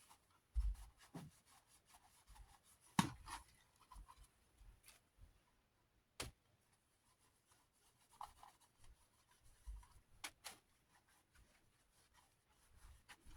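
Desk fan parts being handled during reassembly: quiet, scattered clicks and light knocks, with a few sharper clicks several seconds apart.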